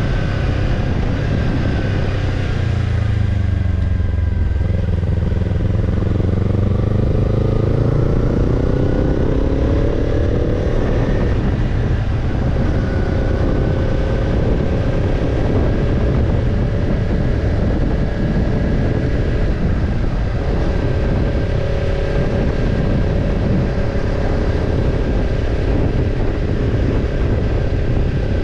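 Kawasaki Ninja 250 parallel-twin engine running through a BEET NASSERT Evolution Type II titanium slip-on muffler while riding: the exhaust note drops about four seconds in, climbs steadily for several seconds as the bike accelerates, then holds an even cruising pitch. A steady rush of wind noise lies under it.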